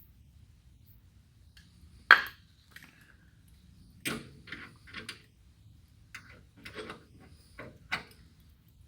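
Sharp, irregular metal clicks and knocks from a hand tool turning a screw extractor on a seized, broken fender bolt, the loudest about two seconds in and a cluster of smaller ones after that.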